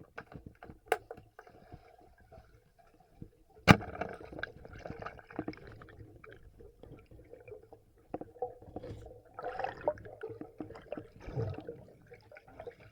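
River water sloshing and gurgling as someone moves through it, with scattered small knocks and one loud sharp knock nearly four seconds in.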